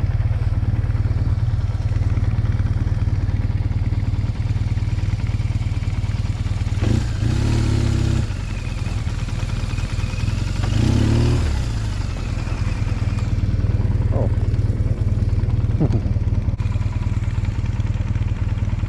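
An engine idling steadily, with a low, even running sound throughout and two brief swells that rise and fall, about a third of the way in and again a little past the middle.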